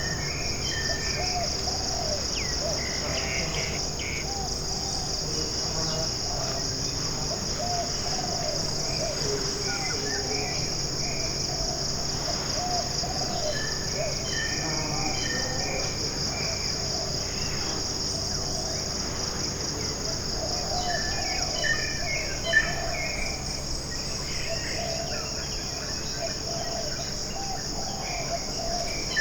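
Tropical forest ambience: a steady, high, pulsing chorus of insects, with birds calling intermittently over it.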